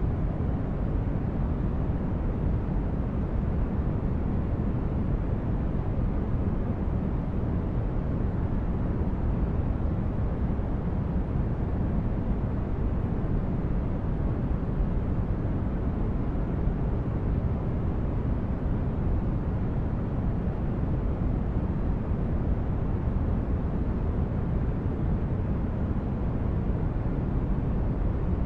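Steady sleep-aid noise: an even, unbroken rushing sound weighted heavily toward the bass, more a deep rumble than a hiss, with no rhythm or change.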